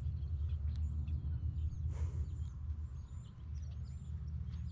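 Small birds chirping and twittering in short high calls over a steady low hum, with a brief rustling burst about two seconds in.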